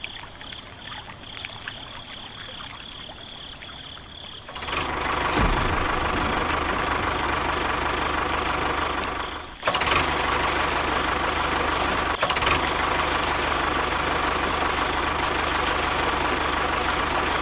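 A small motor running steadily with a constant hum. It starts about four and a half seconds in, cuts out for a moment near the ten-second mark, then starts again.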